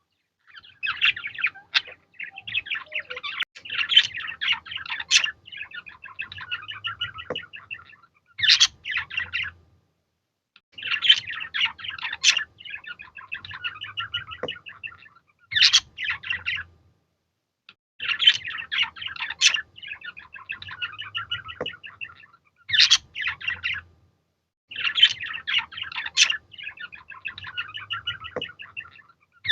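Budgerigars chirping and warbling in phrases of several seconds, broken by short silent gaps. The same run of sharp chirps and trills comes back about every seven seconds.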